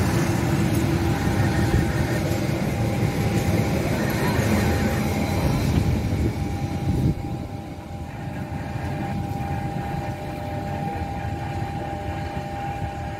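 Passenger train coaches running past at speed: the steady rumble and clatter of wheels on rail stops suddenly about seven seconds in as the last coach clears. A steady high tone carries on after it.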